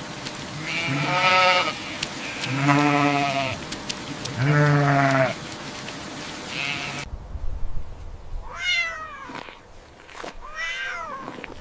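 Animal calls. Three drawn-out pitched calls come about two seconds apart; after an abrupt cut, two shorter, higher calls follow, each rising and falling in pitch.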